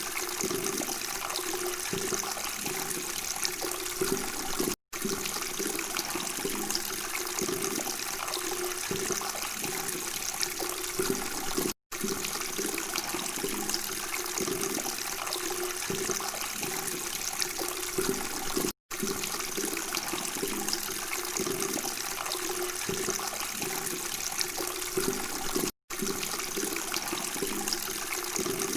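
Babbling running water, a steady gurgling flow, broken by a brief dropout to silence four times, about every seven seconds.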